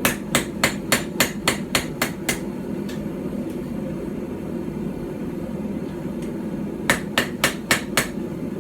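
Small hand-forged hammer of about 12 ounces striking a knife blade on a small stump anvil to flatten it. It lands nine quick blows at about four a second, pauses for several seconds, then lands five more near the end. A steady low background noise runs underneath.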